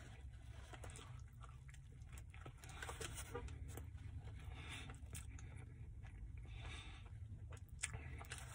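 A person chewing a mouthful of meatball marinara sub with the mouth closed: soft, irregular wet mouth clicks and smacks over a steady low hum.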